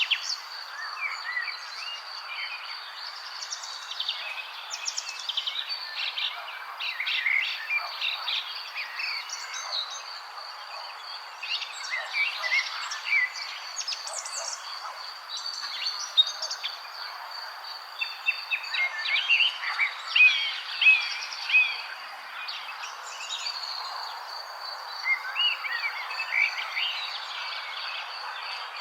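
Several wild birds chirping and trilling in quick, overlapping phrases, over a steady high-pitched insect drone and a constant background hiss.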